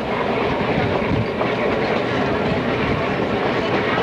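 Passenger train rolling along at speed: a steady rumble and clatter of coach wheels on the rails, heard from an open window of a coach.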